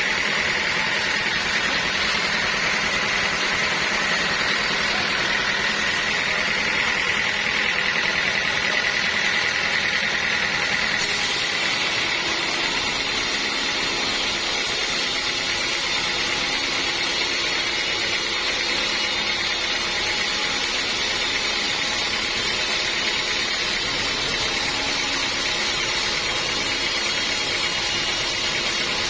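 Sawmill machinery running steadily, with a held high whine over a mechanical drone. About eleven seconds in the sound turns brighter and hissier.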